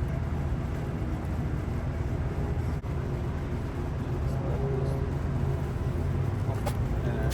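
Steady low mechanical rumble, with a brief dip a little under three seconds in.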